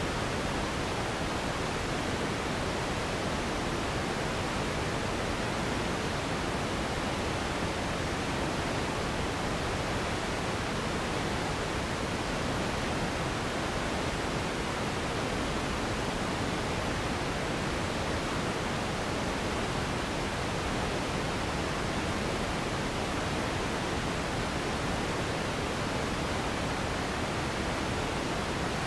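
Steady sleep noise: an even, unbroken hiss with more weight in the low and middle pitches than in the highs, holding level with no change.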